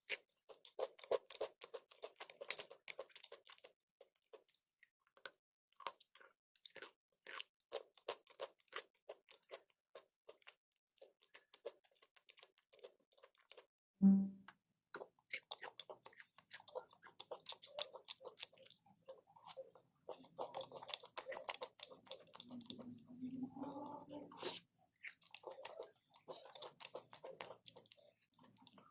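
Chalk and clay being crunched close to the microphone: a long run of small, crisp crackling crunches. There is one low, louder thump about halfway through.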